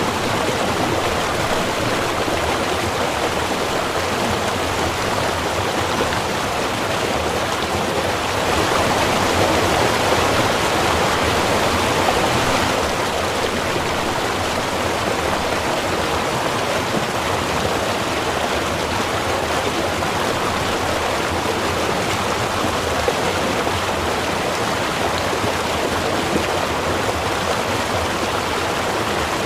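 Small river running steadily, an even rush of flowing water that swells slightly louder for a few seconds about nine seconds in.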